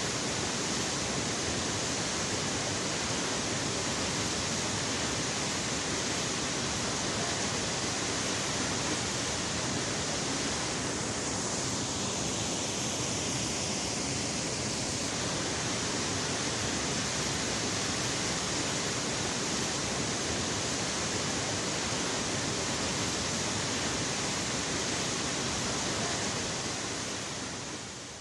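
Steady rush of a high waterfall, its water plunging into the pool below, fading out near the end.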